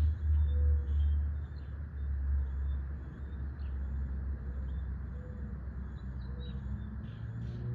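Small birds chirping with short, repeated high calls over a steady low rumble.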